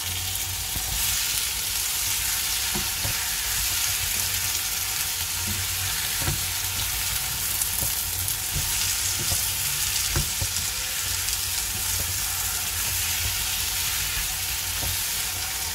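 Paneer cubes and spiced masala sizzling in a frying pan as a spatula stirs and turns them, with steady frying hiss and a few light taps of the spatula.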